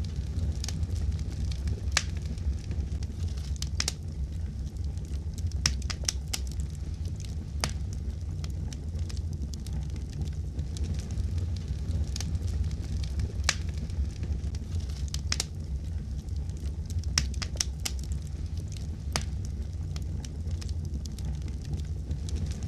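Fireplace fire crackling: scattered sharp pops at irregular intervals over a steady low rumble of the burning fire.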